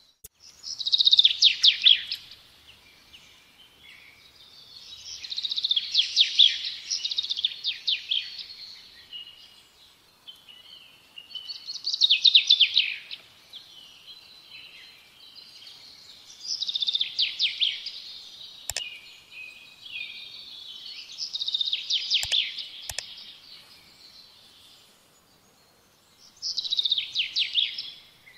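A songbird singing phrases of rapid, high trilled notes, six phrases a few seconds apart. A few faint clicks come in the middle.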